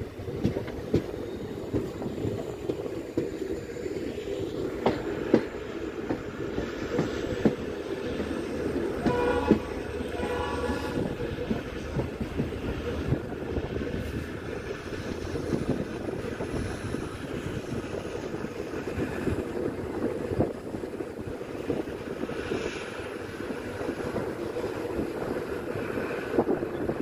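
Passenger train coach running along the track, a steady rumble with irregular wheel clicks over rail joints. About nine seconds in, the train's horn sounds in two short blasts.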